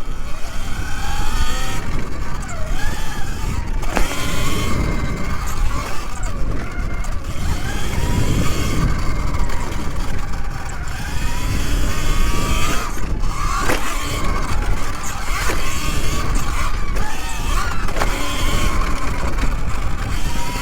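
Segway X160 electric dirt bike riding hard, its motor whine gliding up and down with the throttle over heavy wind rumble on the camera microphone. There are a few sharp knocks along the way.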